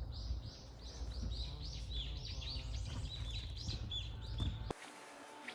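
A forest bird singing a long run of repeated, arched whistled notes, about three a second, over a low steady rumble of outdoor noise. The sound cuts off abruptly near the end.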